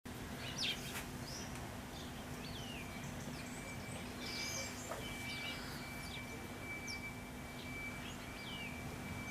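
Birds calling outdoors: short chirps and quick downward-sweeping notes come at irregular moments. From about two and a half seconds in, a thin steady high tone runs under them, over a faint low hum.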